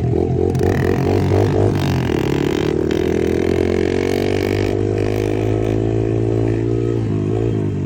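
Pit bike engine revving under throttle. It is blipped unevenly for the first couple of seconds, then rises steadily in pitch as the bike accelerates, and the throttle is worked on and off again near the end.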